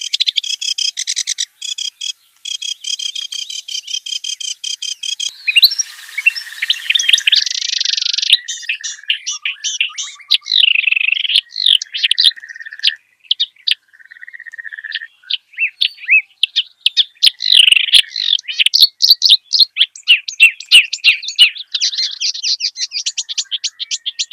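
Kerak basi, a reed warbler, singing a varied song. It opens with a fast run of evenly repeated chattering notes, gives a harsh buzzy phrase about five seconds in, then runs on in a long stream of quick varied chirps and whistles.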